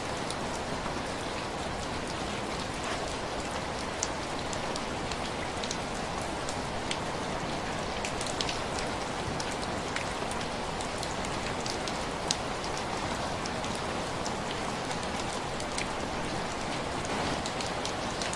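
Heavy rain falling steadily, with scattered sharp ticks and a few louder pops over the constant hiss.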